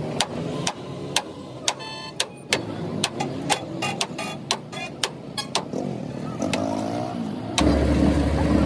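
Hammer blows on steel during truck front-axle repair: sharp, irregular strikes about two a second, some of them ringing. Near the end a loud, steady engine drone comes in suddenly.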